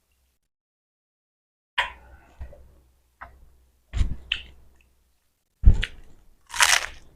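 Close-up eating sounds from a person eating instant noodles and boiled egg: a series of separate chewing and mouth noises, the loudest near the end.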